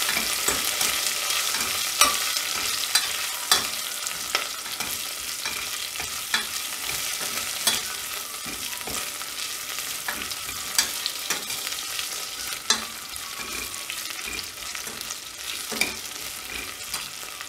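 Green chillies and garlic sizzling in hot oil in a stainless steel pressure cooker, stirred with a steel ladle that clinks and scrapes against the pot now and then. The sizzle slowly dies down.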